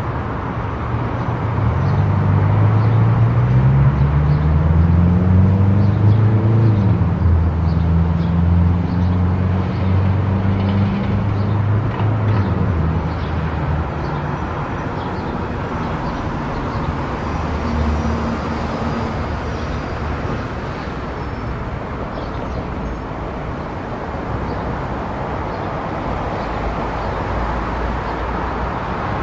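Vehicle driving on an expressway, with a steady rush of road and tyre noise. During the first dozen seconds or so a louder engine drone climbs in pitch, then falls and holds before fading back into the steady road noise.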